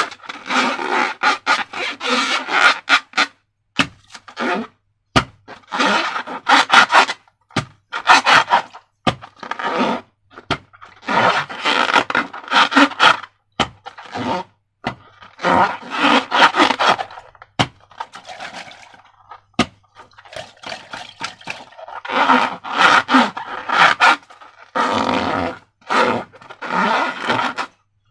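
Repeated wet, scraping squelches from slime-making with balloons, each burst lasting a second or two with short gaps and sharp clicks between.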